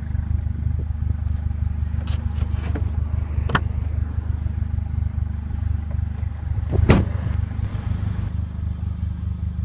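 Mercedes CLA45 AMG's turbocharged four-cylinder engine idling steadily, with a few knocks, the loudest about seven seconds in.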